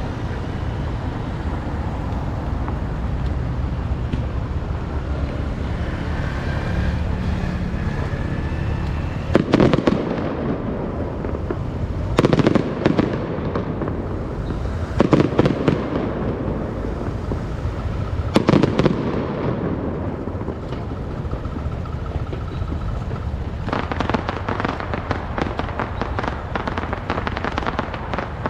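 Fireworks going off: four short, loud volleys of rapid crackling about three seconds apart, then a longer stretch of dense crackling near the end, over a steady background rumble.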